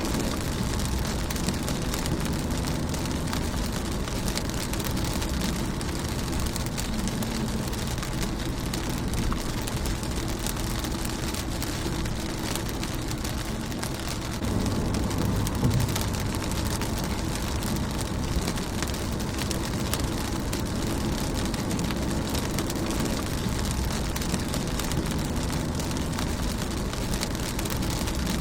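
Steady rain falling on a car's windshield and body, a constant hiss of many individual drops ticking on the glass and metal over a low drumming rumble.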